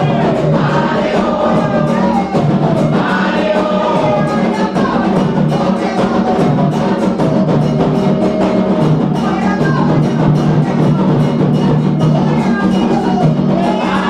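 Candomblé ritual music for the orixá Oyá: a group of voices singing a chant over a continuous beat of atabaque hand drums and percussion.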